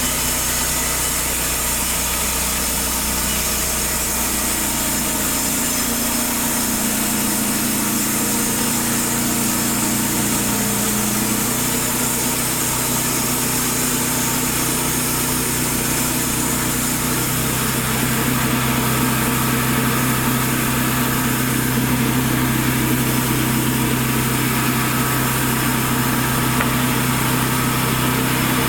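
Petrol engine of a Taiga T-1B band sawmill running steadily. Its note shifts a couple of times and grows a little louder in the last third.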